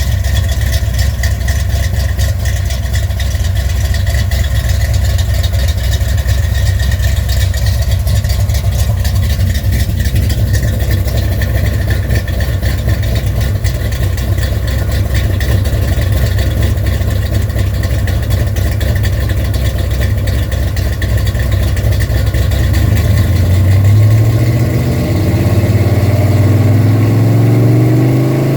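1975 Ford F-250's rebuilt FE 390 V8 with a Comp Cams 279 Thumper cam, running through Headman headers and Flowmaster exhaust, idling steadily. Near the end it is revved up, its pitch climbing and holding higher for a few seconds, then drops back.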